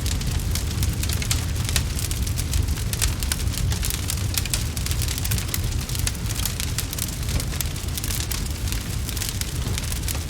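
Wood fire crackling: a dense, irregular run of small pops and snaps over a steady low rumble.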